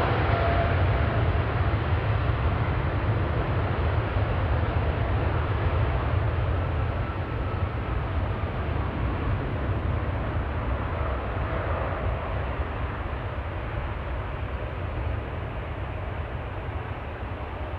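Airplane engines rumbling deeply as an aircraft goes by, with a faint whine at the start; the sound slowly fades.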